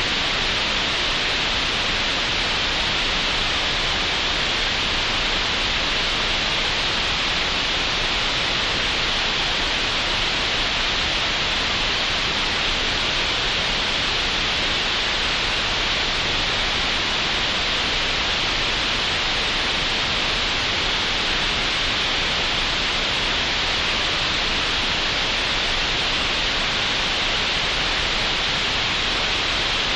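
Computer-generated green noise: a steady, even hiss with no change over time, strongest in the upper middle of the range.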